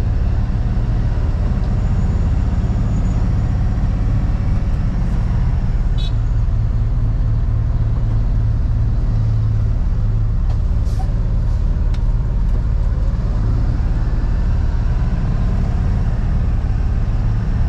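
Steady engine and road noise heard inside the cab of a moving vehicle, a constant low rumble with a few faint ticks.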